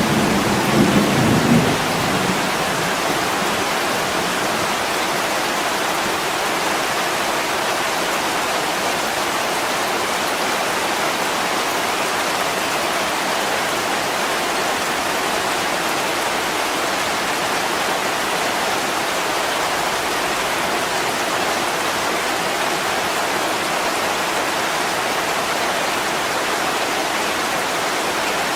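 Heavy rain falling steadily on an attic window, an even hiss. A low rumble of thunder dies away in the first two seconds.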